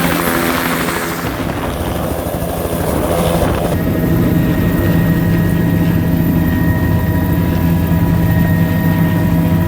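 Helicopter engine and rotor running with a loud, steady drone; about four seconds in, a set of steady higher whining tones joins it.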